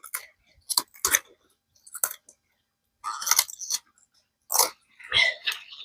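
Collard green leaves being taken off the stalk: several crisp crunching snaps in the first couple of seconds, then the rustle of handled leaves.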